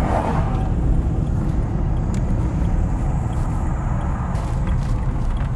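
Car driving slowly, a steady low road and engine rumble heard from inside the cabin, with a few faint clicks.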